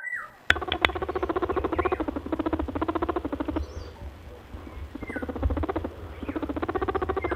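A rabbit's vocal sound: two long runs of quick repeated short notes, with brief high squeaks at the start and about five seconds in, over a steady low hum.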